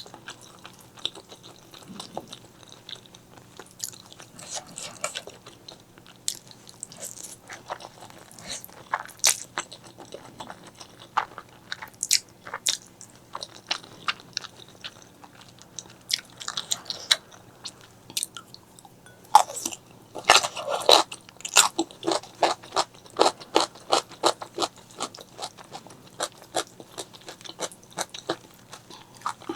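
Close-miked eating: a person biting and chewing food, with moist clicks and crunches. The chewing turns faster and more regular, about three chews a second, in the last third.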